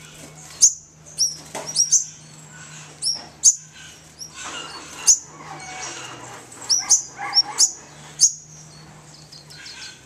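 New Holland honeyeaters calling: short, sharp, high chirps with a quick sweep in pitch, about a dozen of them at irregular intervals, while the birds squabble over sugar on an open hand.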